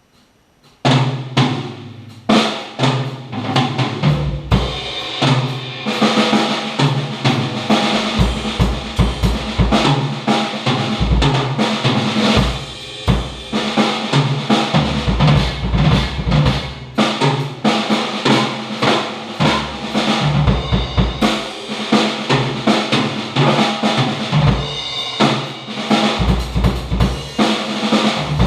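Drum kit being played: bass drum, snare and rapid fills, over a low sustained bass part that changes note every second or so. It starts abruptly about a second in.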